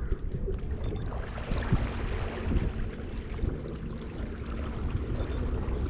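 Fishing kayak under way: wind buffeting the microphone with a steady low rumble, and water rushing past the hull.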